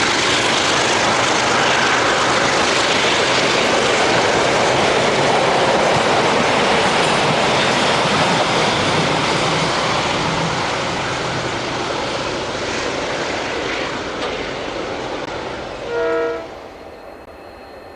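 A train running by on the rails, a loud steady rumble with wheel clatter that fades away over the last several seconds. A brief pitched tone sounds about two seconds before the end, as the noise drops off.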